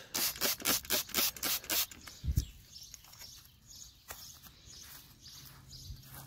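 Handheld trigger spray bottle squirting water in quick repeated pumps, about four a second for the first two seconds. A single low thump follows.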